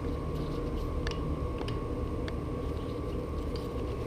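A few faint metallic ticks from an Allen key working the bolt of a bicycle saddle clamp, spaced roughly half a second to a second apart, over a steady low hum.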